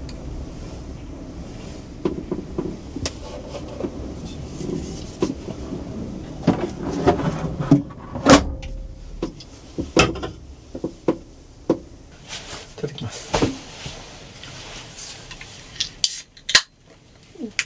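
Irregular clatter of hard objects being handled: a run of sharp clicks and knocks, thickest around the middle, over a low rumble that fades after about eight seconds.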